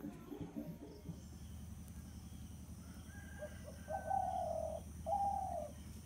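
A bird calling twice, two drawn-out notes of a little under a second each, the second dropping at its end, over a steady low hum.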